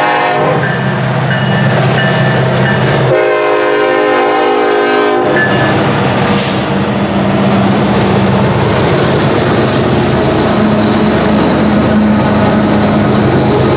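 EMD SD70ACE diesel locomotive passing, sounding its air horn: a blast that cuts off just after the start, then a blast of about two seconds some three seconds in, over the steady low drone of its diesel engine.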